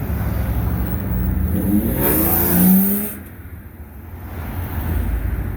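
Street traffic with a car accelerating past close by: its engine note rises and is loudest about two and a half seconds in, with a rush of tyre noise, then drops away quickly, leaving the steady rumble of traffic.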